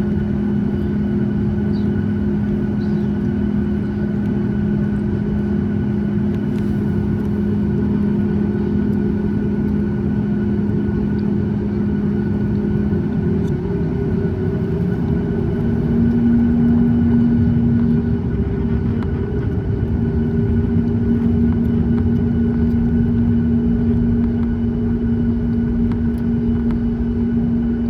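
Boeing 737 MAX 8 cabin noise from its CFM LEAP-1B engines running at a low, steady setting: a constant low rumble with several steady hums. One hum shifts slightly higher about halfway through.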